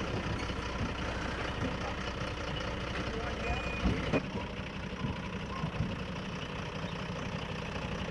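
Game-transport truck's engine idling steadily, with two sharp knocks close together about four seconds in.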